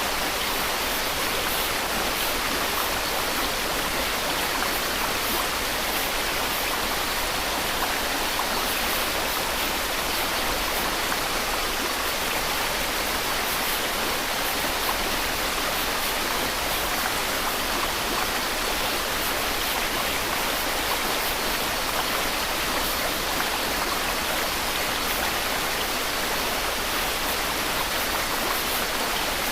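Steady white noise: an even, unchanging hiss spread across the whole range, strongest in the upper part, with no breaks, tones or clicks.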